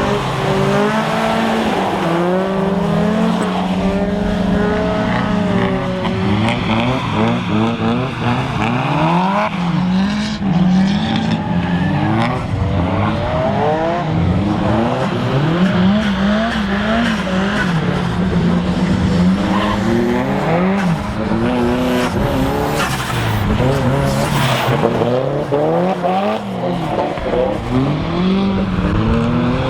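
Drift cars' engines revving up and falling back again and again as they slide through corners on a wet track, with tyre skidding noise.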